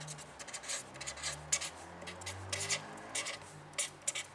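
Pen writing, a quick run of short scratchy strokes.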